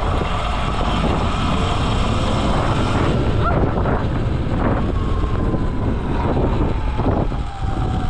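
E-Ride Pro electric dirt bike being ridden, with heavy wind rumble on the microphone. The motor's thin whine falls slowly in pitch over the last few seconds as the bike slows.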